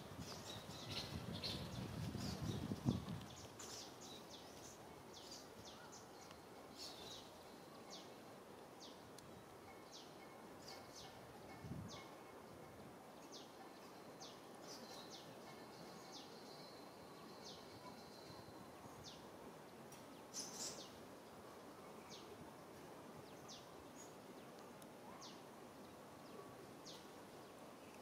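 Faint outdoor ambience of small birds chirping: many short, high, quick chirps repeating irregularly. A low rumble fills the first three seconds.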